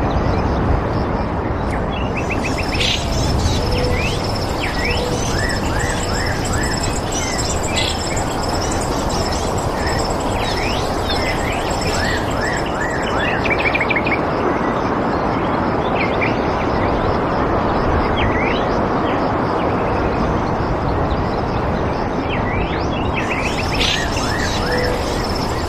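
Small birds chirping repeatedly in quick rising and falling notes over a steady rushing background. A high, thin pulsing trill starts about two seconds in and stops near the end.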